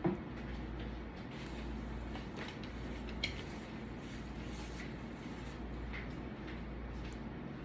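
A few faint clicks of tableware during a meal, one sharper about three seconds in, over a steady low hum.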